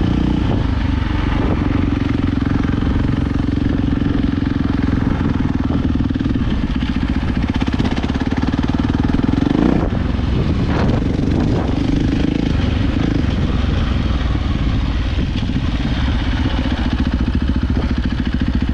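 450cc dirt bike engine running at steady revs while riding, revving up briefly about ten seconds in and then settling back.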